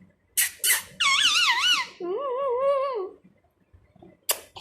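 Indian ringneck parrot calling: two short sharp clicks, then a high warbling squeak that wavers up and down, followed by a lower wavering call about a second long, and one more sharp click near the end.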